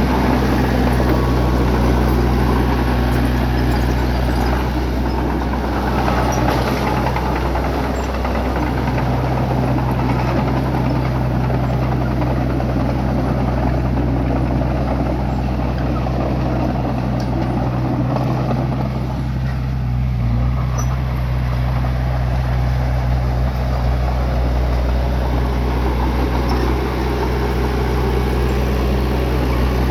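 Bulldozer's diesel engine running at a steady pitch, a low, even drone with faint scattered clicks and clatter over it.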